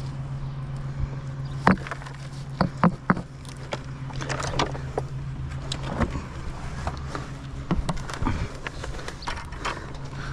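Old chimney bricks being knocked loose and handled during tear-down: irregular sharp knocks and clinks of brick and mortar, the loudest in a quick cluster a couple of seconds in. They sound over a steady low hum.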